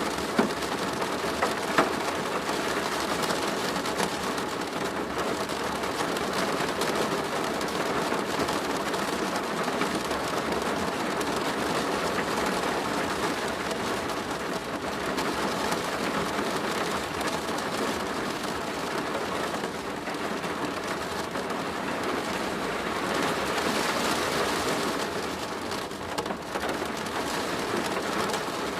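Steady rain falling on a plastic roof, a dense even patter of drops with a couple of sharper, louder drop hits in the first two seconds.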